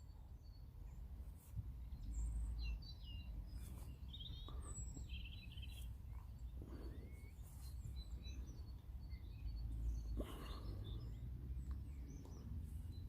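Small birds chirping and trilling in short scattered calls, faint, over a steady low rumble of outdoor background noise.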